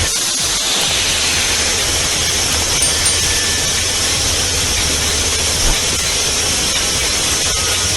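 Steady vehicle noise: a low rumble under a constant hiss.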